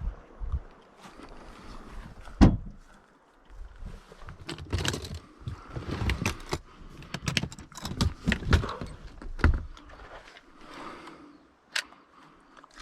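Handling noises: a sharp knock about two seconds in, then a run of clicks, thumps and rustling for several seconds, quieter near the end.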